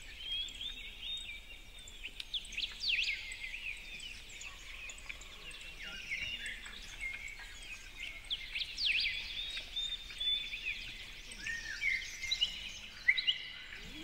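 Birds singing and chirping: many short chirps, whistled notes and quick sweeping calls, often overlapping, with a quick run of short repeated notes near the end.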